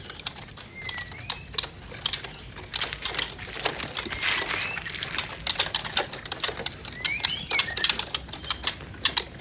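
Many young caged songbirds, white-rumped shamas and bulbuls, fluttering and hopping in their cages or shipping boxes, a dense patter of wing beats and taps, with three short chirps about one, four and a half, and seven seconds in.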